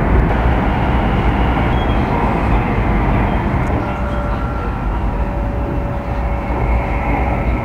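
Train running at speed: a steady rumble of wheels on rails, with a faint steady whine joining about halfway through.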